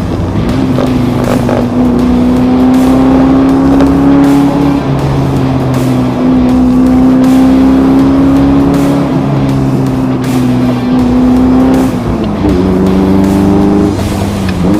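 Car engine running under way, its note holding steady or climbing slowly for several seconds at a time. Near the end the pitch briefly drops and then picks up again, as at a gear change.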